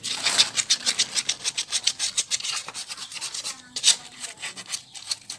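Quick, repeated rubbing or scraping strokes, several a second, like scrubbing or rasping by hand on a part, with a short lull about three seconds in.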